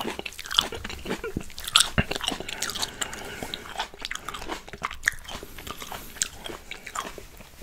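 Close-miked chewing of red grapes, with many short, sharp clicks and snaps of bites throughout.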